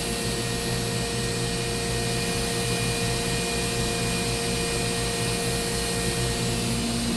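Spindle of a 2013 Mazak HCN 4000-III horizontal machining center spinning free at 14,000 RPM with no cutting load: a steady whine of several fixed tones over an even hiss. It sounds great, the sign of a healthy spindle.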